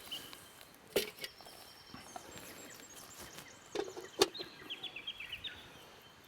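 Short, high bird chirps near the start and again about five seconds in, over outdoor background, with two sharp knocks about three seconds apart, the second the louder.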